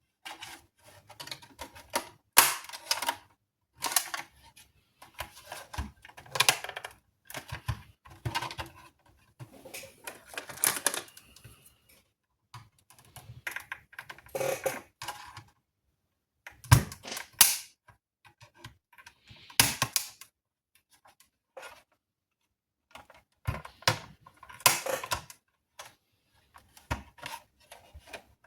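Irregular clicks, clacks and knocks of hard plastic and small parts being handled and pried: a PS5 Slim power supply being taken apart, in clusters separated by brief pauses.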